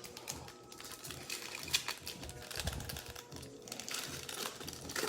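A football trading card pack's foil wrapper is torn open and crinkled, with cards being handled, giving a run of quick crackles and clicks. Faint music plays underneath.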